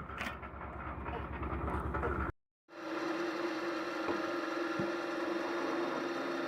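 Homemade firewood processor machinery running: an engine with a fast, even low beat, then, after a brief cut about two seconds in, a different machine with a steady hum.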